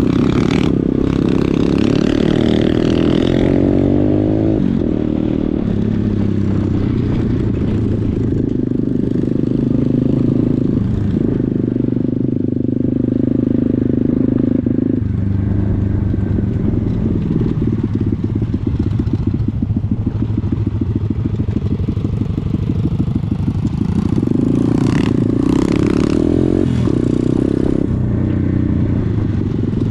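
Pit bike engine running as the bike is ridden, its pitch rising over the first few seconds, then stepping up and down several times with the throttle and gear changes.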